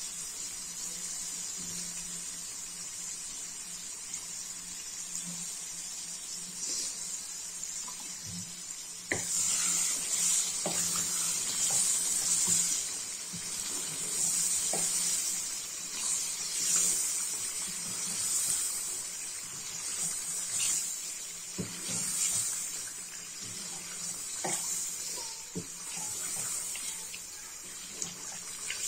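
Chicken and cream sizzling in hot oil in an aluminium handi while a wooden spatula stirs them. The sizzle gets louder and more uneven about nine seconds in, with short scrapes and taps of the spatula against the pot.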